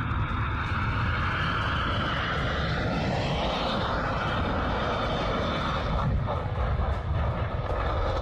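Airplane engine noise, a loud steady rush with a shift in pitch a few seconds in.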